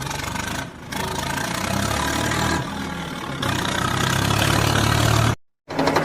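Tractor engine running and revving, its pitch rising somewhat over the middle seconds, then cutting off suddenly near the end; after a brief break a faster, evenly rattling engine sound starts.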